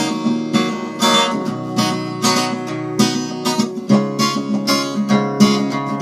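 Acoustic guitar strummed in a steady rhythm, chords ringing between the strokes, as an instrumental passage between sung verses.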